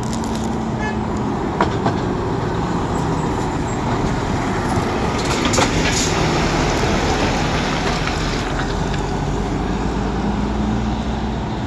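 Heavy lorry's diesel engine running steadily amid road traffic noise, with a brief sharp noise about six seconds in.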